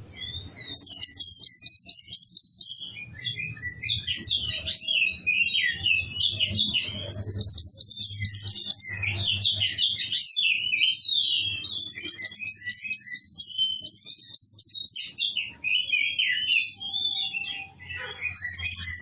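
A songbird singing continuously, which the title calls a kowul singing in full voice: fast rattling trills of rapidly repeated high notes alternate with twisting warbled phrases.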